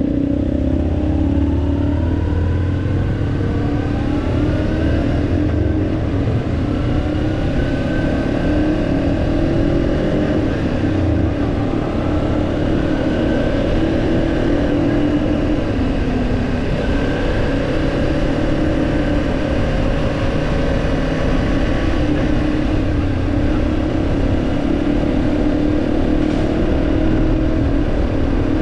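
Kawasaki Ninja 250 parallel-twin motorcycle engine under way: revving up through rising pitch in the first few seconds, then running steadily at a cruising pitch with small rises and falls in revs.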